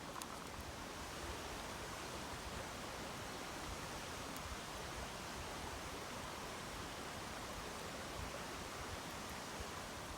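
Mountain stream flowing steadily over a riverbed, an even rushing of water.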